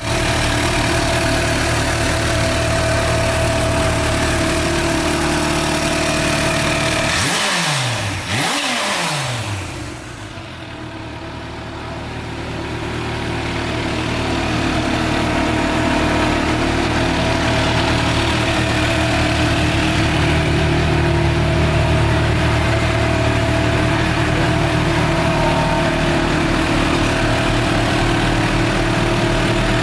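Kawasaki H2 SX's supercharged inline-four engine idling steadily, with two quick throttle blips about seven and eight and a half seconds in, after which it settles back to a steady idle.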